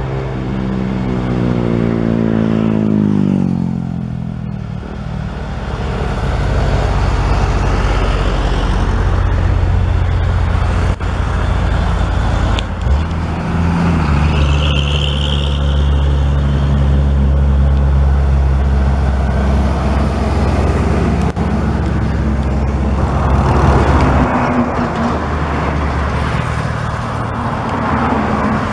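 Mitsubishi Fuso Super Great truck's diesel engine labouring up a climb. Its note falls over the first few seconds, then settles into a steady low drone with a brief break about halfway through.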